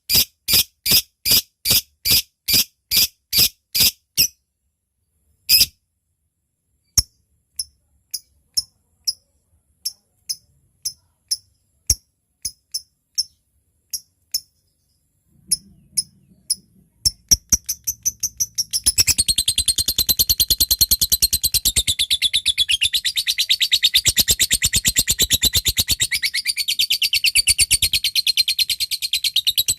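Lovebird calling: a run of sharp high chips about twice a second, then scattered single chips, then from about two-thirds of the way in a long, unbroken rapid chatter. This is the 'ngetik' typing call running on into the long 'ngekek' chatter of a lovebird in full song.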